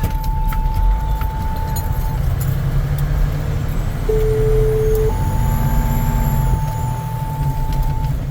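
Heavy fire apparatus engine and road noise, a loud steady low rumble, while two-tone dispatch paging tones sound over the radio. A held high tone sounds for about two seconds. About halfway through comes a second page: a lower tone for about a second, then a higher tone held for about three seconds.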